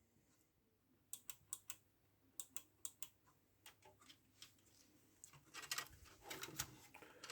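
Faint, irregular light clicks and taps of small hard parts, a few a second, starting about a second in and growing busier with some rustling near the end.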